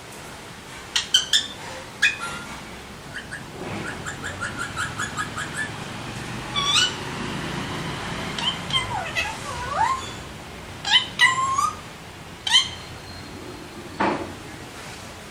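Alexandrine parakeets calling: a string of short, sharp squawks and chirps, with a quick run of rapid chirps a few seconds in.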